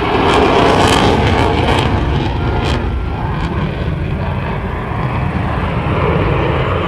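Aircraft engine noise, steady and loud, easing slightly partway through.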